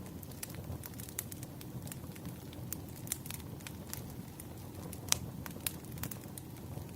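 Wood fire crackling, with irregular sharp pops and snaps over a steady low rumble of burning logs; one louder pop about five seconds in.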